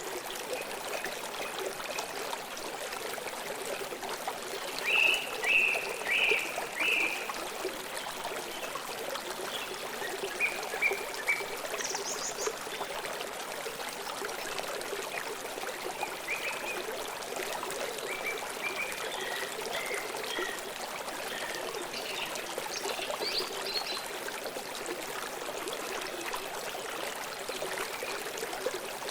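River water flowing steadily, with small birds chirping briefly several times over it.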